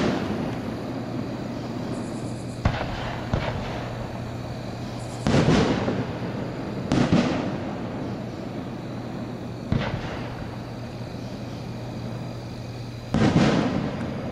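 Display-grade (1.3G) aerial firework shells launching and bursting overhead: about seven bangs, spaced one to four seconds apart. The loudest come about five seconds in and again near the end.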